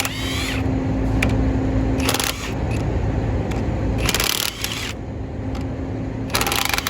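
Hand ratchet wrench clicking in short bursts as an engine mount bolt is worked loose, with a brief squeak at the start.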